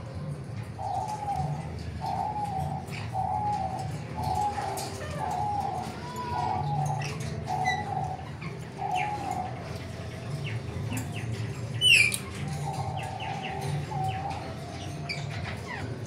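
Caged aviary birds calling: a low cooing note repeated about twice a second for several seconds, then again briefly near the end, among scattered chirps and wing flutters. About twelve seconds in comes one loud, shrill, falling squawk.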